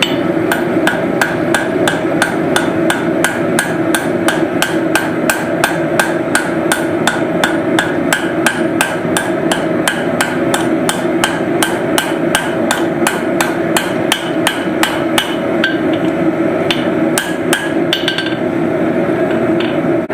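Hand hammer striking hot steel on an anvil in a steady rhythm of about three to four blows a second, forging out tong stock, with a brief pause about three quarters of the way through. A steady rushing noise runs underneath the blows.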